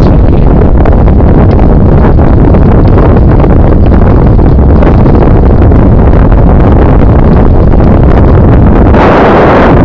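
Loud, constant wind buffeting on the microphone of a camera carried along on a moving bicycle, heaviest in the low end, with a brighter rushing swell about nine seconds in.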